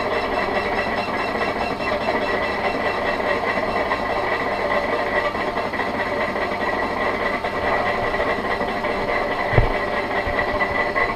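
Hendey flat-belt-drive lathe running in back gear under a heavy roughing cut in steel with a high-speed-steel chip-breaker tool, working near the limit of its power. A steady machine drone carries a constant high whine, and a single short thump comes near the end.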